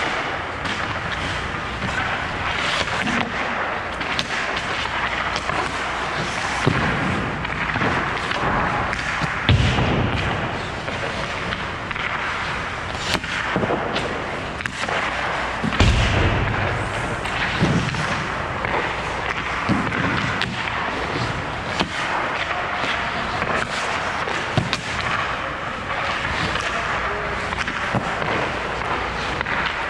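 Hockey pucks being shot at a goalie in an ice rink: repeated sharp cracks and thuds of sticks on pucks and pucks striking pads and boards, over steady rink noise. Two heavier thuds come about ten and sixteen seconds in.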